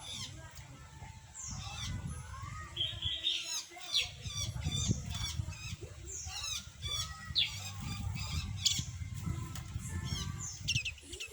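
Small songbirds calling: many short, quick high chirps, mostly falling in pitch, some in rapid runs, over a low rumble.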